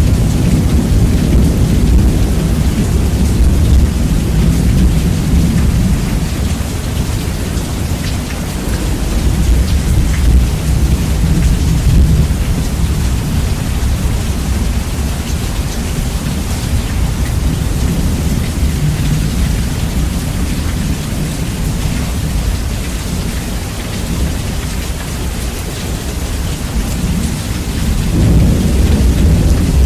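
Steady rain with rumbling thunder, bass-boosted and very loud so that the deep rumble dominates. The rumble swells about ten seconds in and again near the end.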